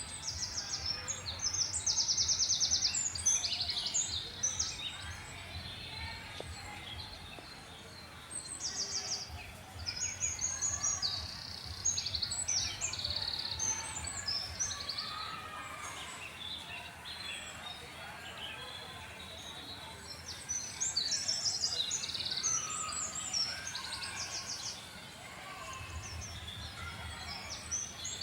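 Birds singing, with high, rapid trilled phrases repeating again and again over faint background noise.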